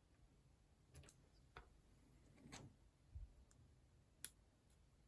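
Faint, scattered clicks of small plastic building blocks being handled and pressed together, about six over a few seconds, against near silence.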